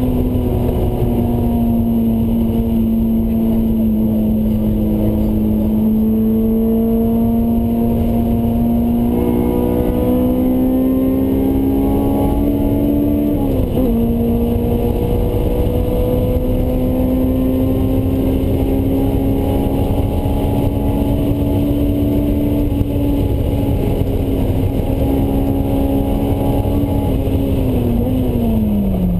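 Honda S2000's inline-four engine with a Mugen exhaust, heard from inside the cabin running hard at high revs, its pitch sagging and climbing through the corners. Its pitch dips sharply and recovers about halfway through, a quick gear change. Near the end it falls away and jumps back up again, a downshift with a blip of the throttle.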